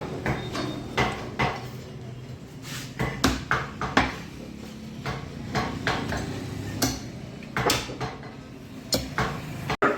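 Kitchen utensils and pots clinking and clattering, many short irregular knocks, over a low steady hum.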